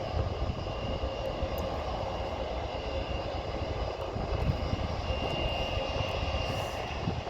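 Jet airliner engines heard from a distance: a steady, even rumble with a faint steady whine over it.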